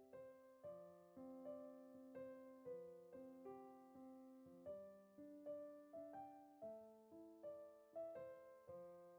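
Quiet background piano music: a slow, gentle run of single notes and chords, each struck and left to fade, one about every half second to second.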